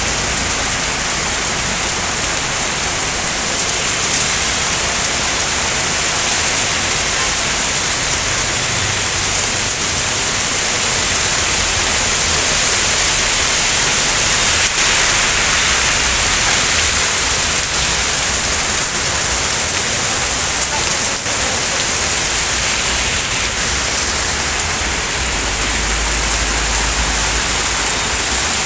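Heavy downpour of rain falling on a street, a loud, steady hiss that does not let up.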